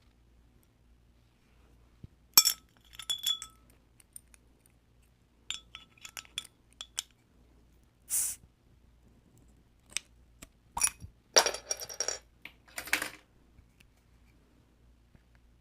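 Hard clinks and clatter of oyster shells and tableware against a plate, in several short bursts with brief ringing tones.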